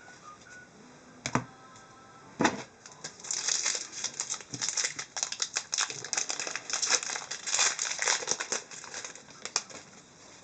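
Foil wrapper of a trading card pack crinkling and rustling as it is handled, in a dense crackly run lasting about six seconds, after two sharp clicks near the start.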